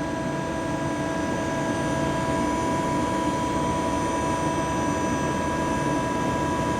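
CNC lathe running a machining cycle: a steady whine made of several fixed tones over a hiss.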